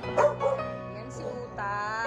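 German Shepherd puppies yipping and barking in short, high yelps over background music.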